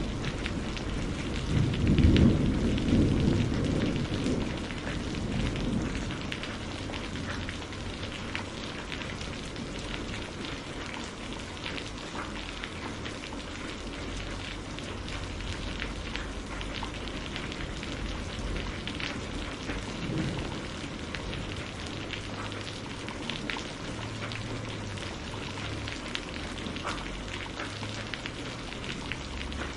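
Steady rain heard from inside a greenhouse, with single drops ticking sharply. A roll of thunder builds about two seconds in and fades away over the next few seconds, with a faint low rumble again later.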